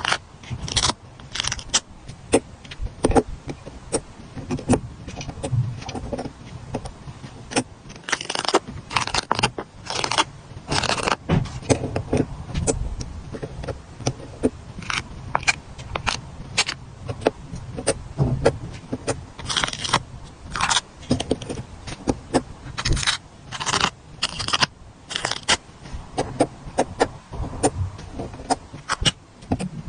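Stickers being handled and peeled off their backing sheets close to the microphone: a stream of irregular crackles and taps with a few longer rasping peels.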